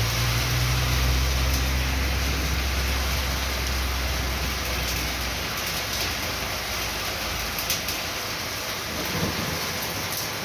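Heavy rain falling on a sheet-metal roof and the wet street, a steady hiss. In the first five seconds or so a car passes on the wet road, adding a low rumble.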